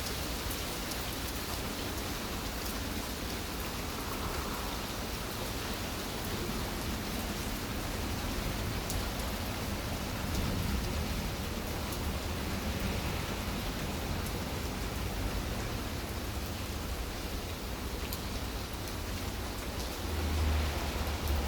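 Steady rainfall: an even hiss of rain with faint ticks of single drops, and a low rumble near the end.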